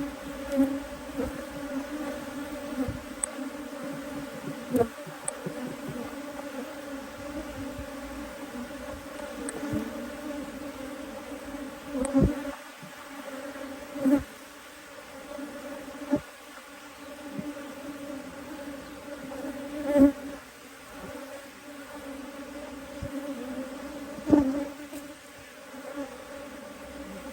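Honey bee colony buzzing in an open hive box, a steady hum, broken by several sudden knocks, the loudest near the end.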